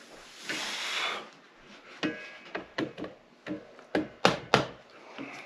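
Hand tools knocking and clicking against parts of a Honda CB450 engine under disassembly, with two sharp knocks close together near the end. A short rushing noise comes about half a second in.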